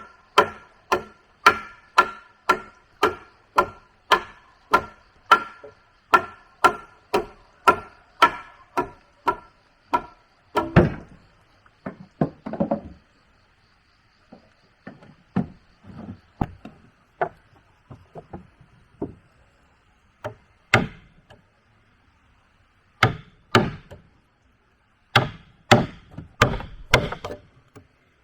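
A tool striking wood in steady, quick blows, about one and a half a second, each with a short ringing note, then slower, irregular strikes with pauses after about ten seconds.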